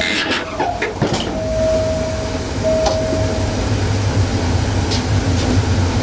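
Diesel passenger train running over the track with a steady low rumble, and a few knocks in the first second as the wheels cross the level crossing. A level-crossing warning signal gives a steady tone in stretches and stops about three and a half seconds in.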